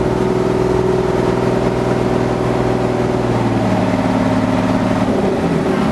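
River passenger boat's engine running steadily, its pitch stepping down about three and a half seconds in and shifting again near the end as the throttle changes.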